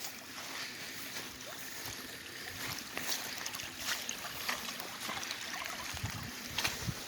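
Slow-moving water gently lapping and trickling, with many small crackles and ticks over a steady hiss. A few low thumps come about six seconds in.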